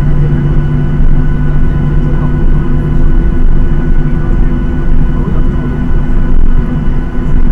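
Boeing 737-800's CFM56-7B turbofan engines running loud and steady, heard inside the cabin as a continuous drone with several steady tones.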